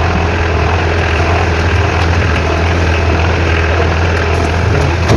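Mitsubishi 4M40 four-cylinder diesel engine idling steadily.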